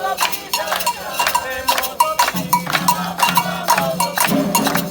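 Candomblé ritual percussion: a metal bell, most likely the agogô, struck in a quick steady rhythm of about four strokes a second over drums, with a low sustained pitched sound joining about halfway.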